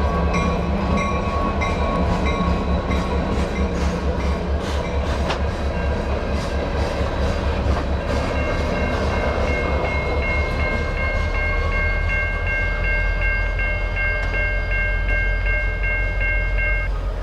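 Diesel locomotive running with a steady low engine rumble and a regular clicking of wheels, hauling two loaded coal cars past a grade crossing. The crossing's warning bell rings in even pulses about twice a second, clearest from about halfway.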